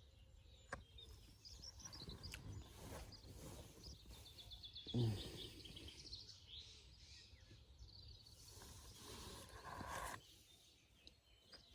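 Faint outdoor ambience with small birds chirping in quick high trills. About five seconds in there is a brief, louder low sound that falls in pitch.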